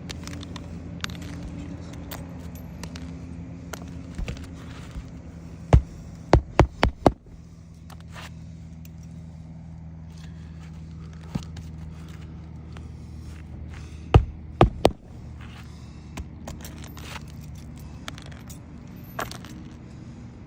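Roofing nails being driven by hammer into asphalt shingles: a quick run of five sharp strikes about six seconds in, and three more around fourteen seconds. Between them, shingles scrape and crackle as they are lifted and handled, over a steady low hum.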